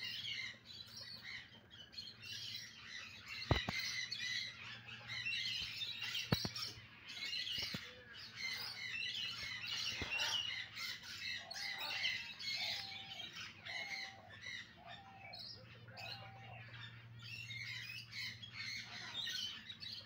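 Birds chirping and twittering continuously. Three sharp clicks come in the first half, and a run of five lower, evenly spaced calls comes a little past the middle.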